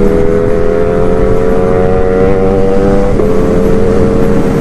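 Kawasaki Z900's inline-four engine with an aftermarket exhaust, running steadily under way. Its pitch rises slowly, with a brief break about three seconds in.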